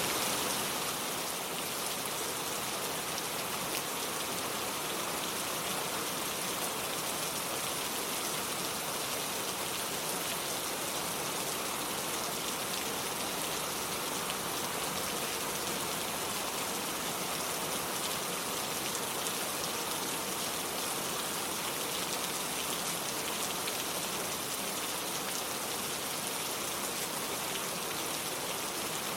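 Steady rain falling and pattering on hard surfaces, an even hiss without pauses or changes.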